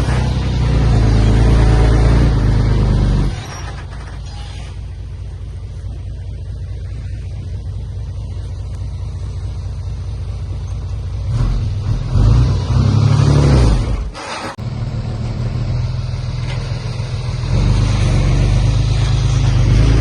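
Heavy diesel engine of earthmoving machinery running loud and low. It drops abruptly to a quieter steady run about three seconds in, revs up and down briefly a little past the middle, then grows loud again near the end.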